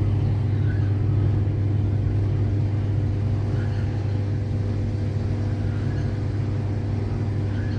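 A steady low mechanical hum from a running motor, unchanging throughout, with a few faint short chirps.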